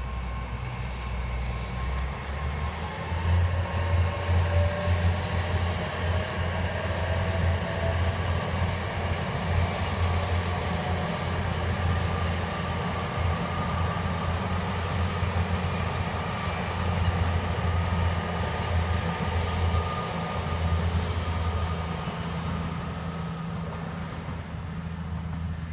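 LNER Azuma (Class 800) passenger trains passing close by at speed: a steady loud rumble of wheels on the rails, with a high whine that rises about two seconds in and then holds.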